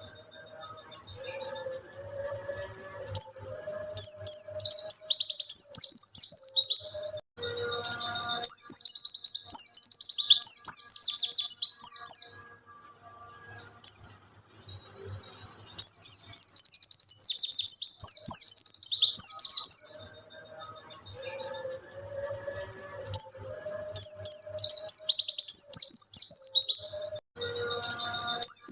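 Pleci (white-eye) singing hard: loud, rapid, high warbling trills in runs of about three to four seconds, with short quieter pauses between them.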